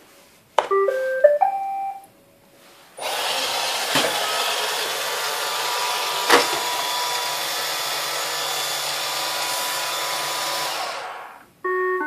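Roomba 563 robot vacuum: a short rising beep tune, then its vacuum and brush motors run with a steady hiss for about eight seconds, with a couple of clicks, and stop. Near the end a two-tone error chime begins, the warning that comes just before it announces Error 1.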